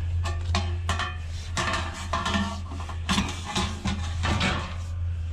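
Pieces of scrap metal clanking and rattling as they are set down and shifted, a rapid series of knocks, several with a brief metallic ring. A steady low hum runs underneath.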